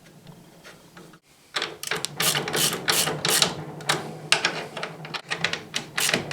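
Fridge door hinge being worked into place by hand: an irregular run of sharp clicks, scrapes and rattles of metal and plastic parts, starting about a second and a half in.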